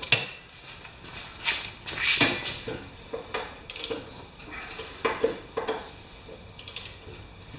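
Irregular metal clinks and clanks of a wrench and socket working a stubborn bolt on a lawn mower's underside, a few sharp knocks a second.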